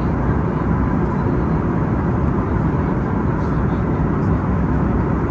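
Steady cabin noise of an Airbus A321neo airliner in flight: an even, unbroken rush of engine and airflow noise, heaviest in the low end.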